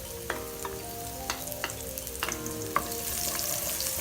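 Chopped garlic sizzling in hot cooking oil in a frying pan while being stirred, with a few sharp taps of the utensil against the pan. The sizzle gets louder about three seconds in.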